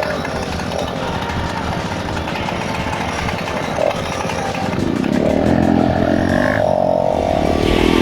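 Motorcycle engine running while riding, growing louder about five seconds in.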